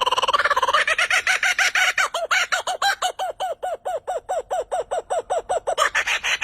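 A bird calling: a buzzy trill that breaks about a second in into a fast run of short, arched notes, about five a second.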